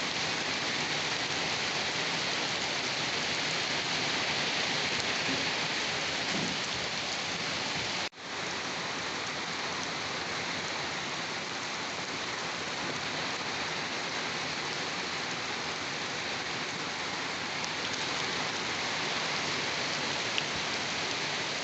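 Steady rain falling, an even hiss of many drops with no letup. The sound drops out for an instant about eight seconds in, then returns at the same level.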